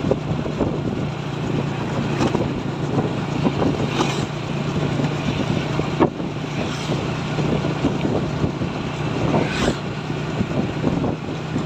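A truck driving at high speed: a steady low engine drone under road and wind noise, with a few sharp knocks, one about halfway through.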